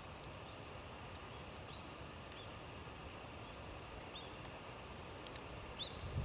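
Small bird chirping: short, high, faint chirps every half second or so over a quiet woodland background, with a few faint sharp clicks.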